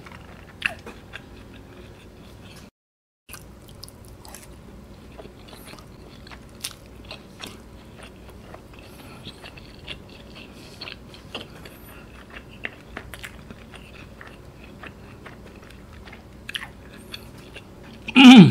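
Close-miked chewing of teriyaki-glazed fried chicken balls, with many small wet mouth clicks and smacks. The sound drops out briefly about three seconds in, and a short loud vocal sound comes near the end.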